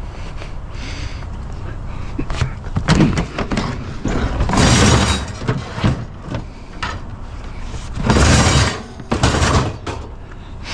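Curbside scrap being handled and loaded into a vehicle: several clattering knocks and scraping bursts, the longest about halfway through and another near the end, over a steady low rumble.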